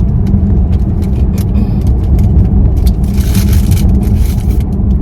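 Road and engine noise heard from inside a moving car: a steady low rumble, with a few light clicks and a brief hiss about three seconds in.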